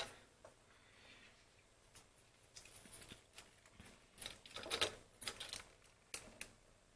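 Scattered light clicks and short rustles of the phone's small plastic parts being handled, with a few sharper ticks near the end.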